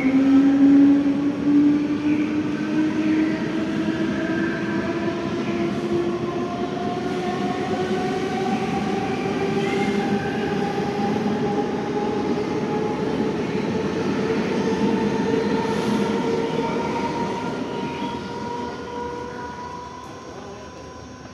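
Mumbai suburban EMU train pulling away and accelerating, its electric traction motors giving a whine that rises slowly in pitch over a rumble of wheels on track. The sound fades away near the end as the train leaves.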